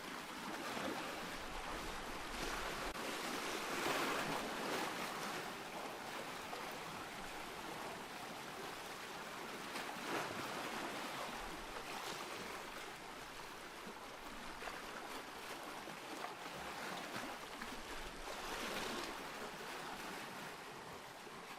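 Ocean surf: waves washing in as a steady rushing hiss, swelling louder every few seconds as each wave breaks.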